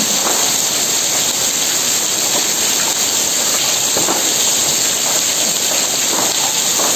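Heavy rain pouring onto a flooded concrete yard, a steady loud hiss of drops hitting standing water.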